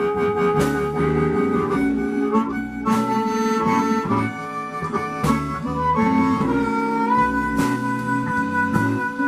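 Blues band playing an instrumental break: a harmonica carries the lead with long held notes that bend in pitch, over guitar and drums.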